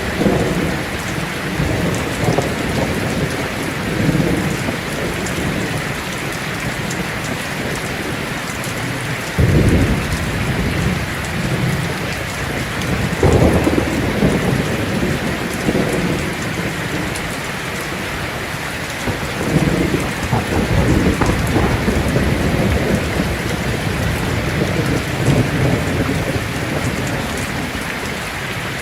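Heavy rain falling steadily on a tin roof, with thunder rolling in low rumbles that come and go. One roll starts suddenly about nine seconds in, and another comes near thirteen seconds.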